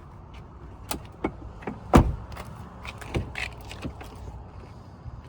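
A series of sharp clicks and knocks on a pickup truck, with one loud heavy thump about two seconds in, over a low steady rumble.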